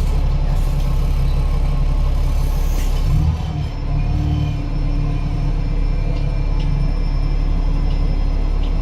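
Cummins ISL8.9 diesel engine and Voith DIWA automatic gearbox of an Enviro500 MMC double-decker bus running, heard from inside the bus as a steady low rumble. The rumble dips briefly a little over three seconds in, and a faint whine comes in soon after.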